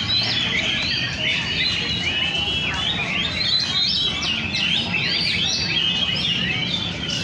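Several oriental magpie-robins (kacer) singing at once, a dense, unbroken tangle of varied whistles and chirps, over a steady low background hum.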